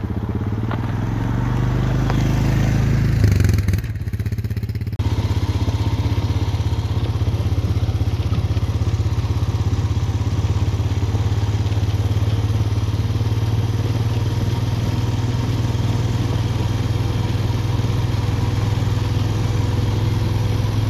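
ATV engine pulling away, rising in pitch and loudness over the first few seconds, easing off briefly about four seconds in, then running at a steady cruise on the trail.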